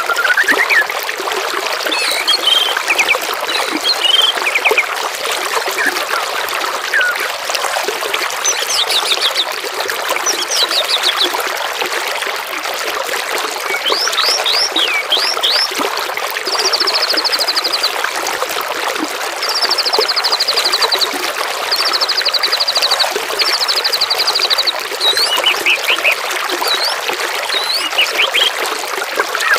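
Songbirds singing over steadily trickling, babbling water: scattered chirps and quick upswept notes, then in the second half a run of rapid trills, each about a second and a half long.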